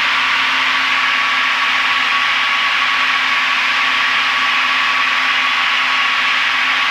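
Steady cockpit noise of a Piper PA-32R Saratoga in flight: its six-cylinder Lycoming IO-540 engine and the airflow, heard as an even hiss with a faint constant hum.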